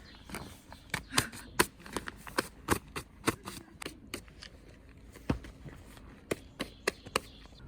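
A run of sharp, irregular clicks and knocks, some louder than others.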